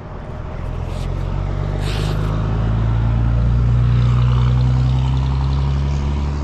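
A motor vehicle's engine going by: a low steady hum that grows louder over the first few seconds and then eases off slightly. Two brief sharp sounds come about one and two seconds in.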